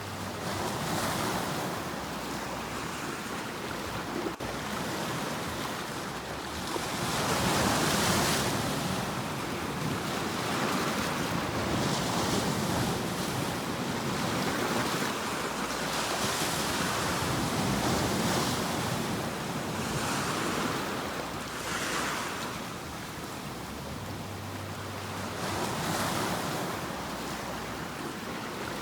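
Sea waves surging and receding in repeated swells of rushing water every few seconds, the loudest about eight seconds in.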